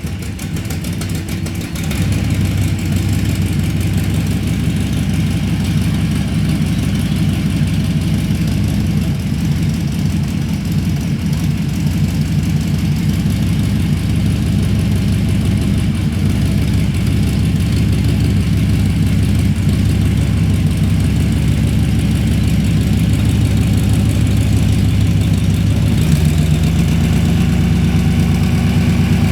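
A vehicle engine running steadily at idle, getting louder about two seconds in, with a slight change in its note near the end.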